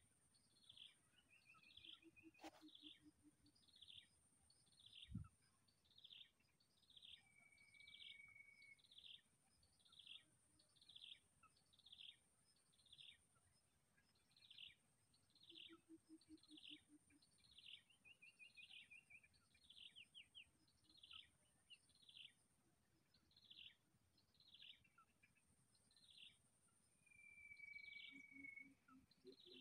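Faint outdoor ambience: a bird repeating a short, falling chirp about once a second, with an occasional held whistle and a steady high-pitched hiss behind it. A single low thump sounds about five seconds in.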